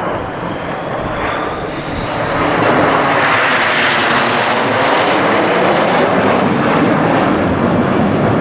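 An aeroplane flying past at an airshow, its engine noise growing louder about two and a half seconds in and staying loud.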